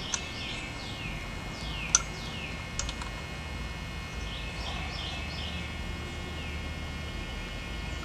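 Birds calling over and over with quick downward-sliding chirps, over a low steady background rumble. A few sharp clicks, the loudest about two seconds in, come as the yellow hose fitting is worked onto the nitrogen regulator.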